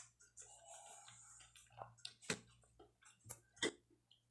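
Quiet chewing and mouth sounds, with a few sharp clicks of a metal fork against a glass plate in the second half.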